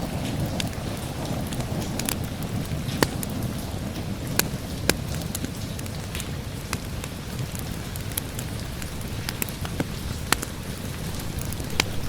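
Steady rain with a low rumble, and a wood fire crackling over it in irregular sharp pops, a few of them louder.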